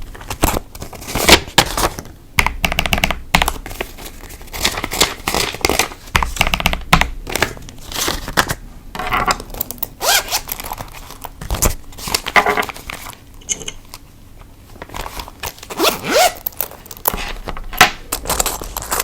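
Hands handling paper banknotes: crinkling, rustling and sliding strokes of paper money being counted and stuffed into envelopes or wallet pockets, in irregular bursts with the odd light knock.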